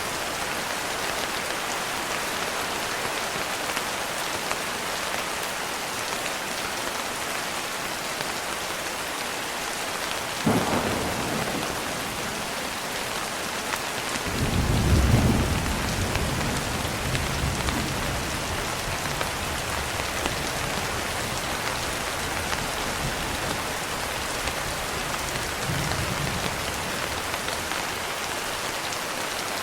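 Steady rain pattering on a window pane, with thunder. A sharp crack comes about ten seconds in, then a deep rumble rolls for several seconds, and a fainter rumble comes near the end.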